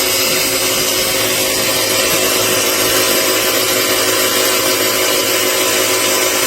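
Above-ground pool pump driven by a Century Electric UST1152 1½-horsepower replacement motor, running steadily: a motor hum under a broad, even hiss.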